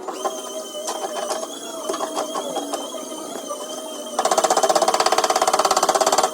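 Rapid, even tapping on a car door panel during dent repair, about seventeen strokes a second, starting about four seconds in and loud; lighter scattered taps come before it, over background music.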